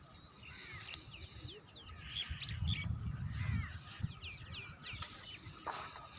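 Birds calling outdoors: a flurry of many short, quick chirps that sweep in pitch, with a low rumble about halfway through.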